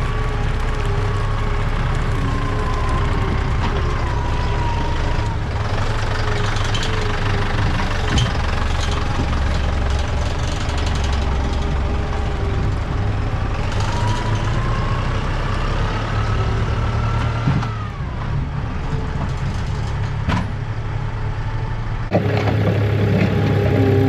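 Kubota tractor's diesel engine running steadily under work, with a whine that slowly rises and then drops off about two-thirds of the way through. The sound shifts abruptly near the end.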